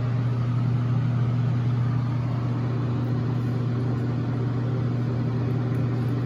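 Steady low motor hum with an even rushing noise over it, unchanging throughout.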